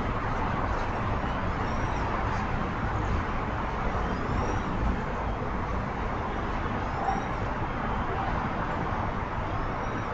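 Steady rumbling noise of a CN freight train of covered hoppers and tank cars rolling slowly past, muddied by rain on the microphone, with short high rising chirps every couple of seconds.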